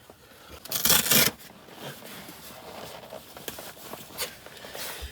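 Waterproof suit fabric rustling and rubbing as it is pulled on, with a loud rustle about a second in and irregular smaller scrapes after.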